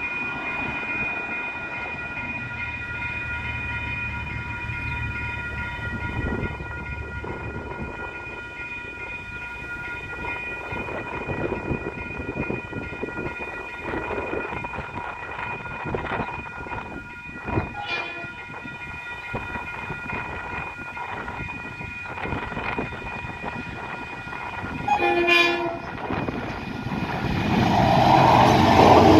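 Level crossing warning bells ring steadily as a freight train approaches. About 25 seconds in, the lead GE U26C diesel locomotive gives a brief horn blast. The locomotives' engines and wheels then grow loud as they reach the crossing near the end.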